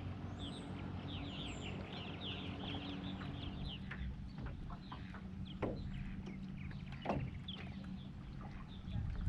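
Birds calling in quick runs of short, falling chirps, most busily in the first few seconds, over a steady low hum that fades out about halfway. A couple of sharp knocks come in the second half.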